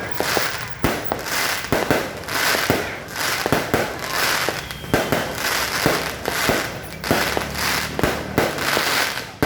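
Fireworks going off in quick succession: many sharp bangs, several a second, over continuous crackling.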